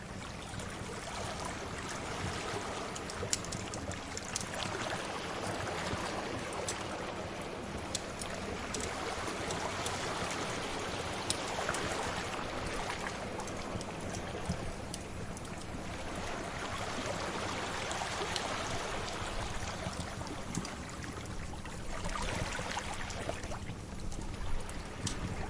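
Sea waves washing in slow swells about every five to six seconds, with the sharp pops and crackles of a wood fire scattered over them.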